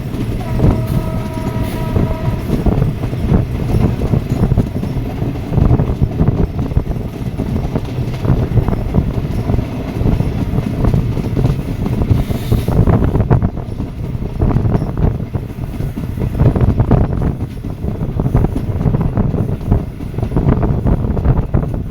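Train running on the rails: a loud, continuous rumble with rapid rattling and clicking of the wheels over the track. A short high steady tone sounds near the start and lasts about two seconds.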